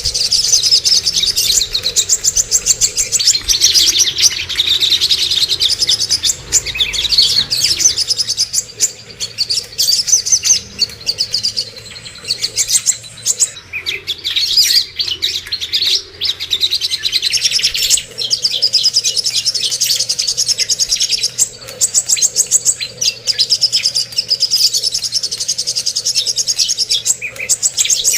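Recorded cage-bird song of cucak kombo and songok: dense, rapid, high-pitched chirping and trilling, a little sparser in patches about a third of the way in.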